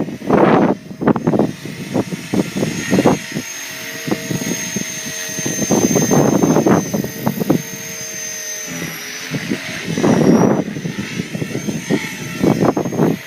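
Electric Blade 450 3D radio-controlled helicopter in flight: a steady whine from its motor and rotors, dipping briefly in pitch about two-thirds of the way through. Several gusts of wind buffet the microphone loudly.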